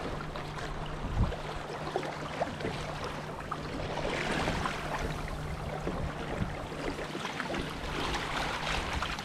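Water rushing and splashing along the hull of a small sailing canoe running with the swell. The wash surges louder about four seconds in and again near the end, over a faint steady low hum.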